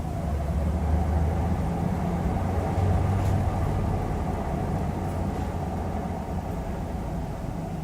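Hyundai Aerocity 540 city bus running, with a steady low engine rumble and a mid-pitched drone over it. The drone drops away right at the end.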